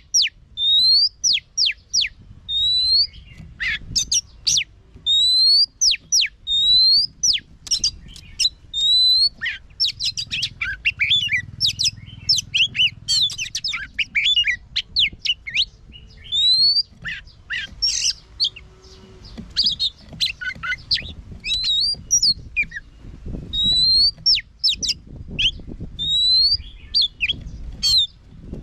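Oriental magpie-robin singing: clear rising whistled notes repeated again and again, breaking in the middle into fast runs of varied sharp, chattering notes, then returning to the rising whistles near the end.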